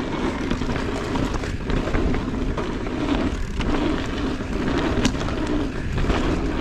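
Steady ride noise from an electric mountain bike rolling along a dirt trail: a continuous rumble of tyres and bike, with a few short rattles and clicks.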